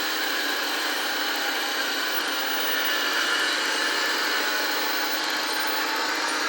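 A radio-controlled model truck or construction machine running steadily: an even mechanical hum with several held whining tones and no change in pitch.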